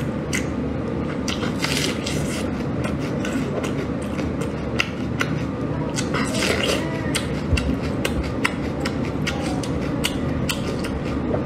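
Close-miked eating: wet chewing, lip smacks and mouth clicks as braised meat and a steamed bun are chewed, over a steady low background noise.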